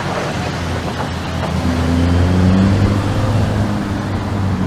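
Lamborghini Urus's twin-turbo V8 running at low speed as the SUV pulls away, its pitch and loudness rising a little about two seconds in.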